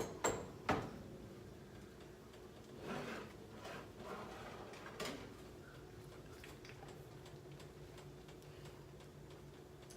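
A few light clicks and knocks, three close together at the start and one more about five seconds in, over a faint steady hum: handling of a Farberware air fryer toaster oven as its door is opened to check the wings.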